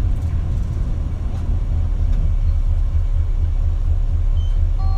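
Cabin sound of an Isuzu Erga KL-LV280L1 route bus's diesel engine running, a loud low rumble. From about two seconds in it takes on an even, pulsing beat of roughly three a second.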